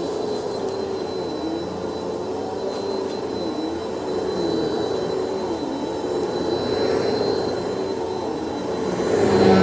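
Vacuum cleaner running steadily, its motor pitch dipping briefly about once a second, with a swell in loudness near the end.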